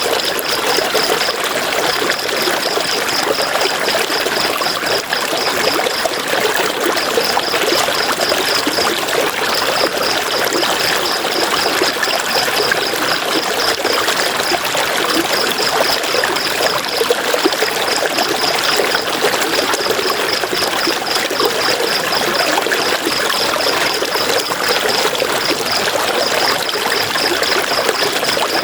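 A river flowing steadily, its water rushing and trickling. Over it, a high, rapid pulsing chirp comes and goes in runs of a few seconds.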